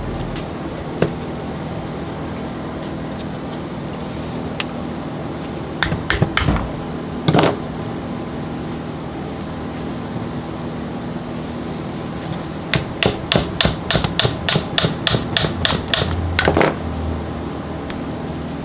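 Hammer striking the metal parts of a Denso alternator being taken apart: a few single knocks, then a quick run of strikes about three a second for several seconds, over a steady hum.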